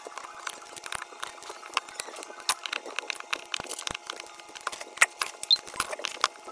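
Rapid, irregular small clicks and taps of repair tools and tiny metal parts as an iPhone 6 is taken apart to remove its logic board.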